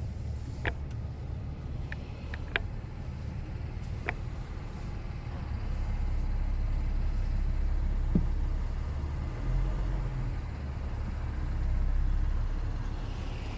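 Vehicle engine idling with a steady low rumble that swells a little in the middle, with a few sharp metallic clinks.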